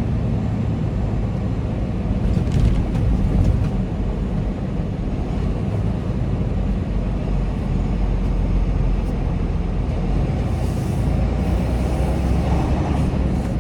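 Semi-truck engine running with a steady low rumble, with a few faint clicks about three seconds in.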